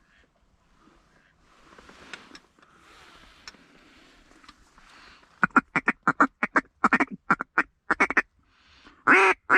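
A duck call blown in a quick run of about a dozen short quacks, then a few longer, louder quacks near the end, calling to a bird circling overhead. Before the quacks there is a faint hiss.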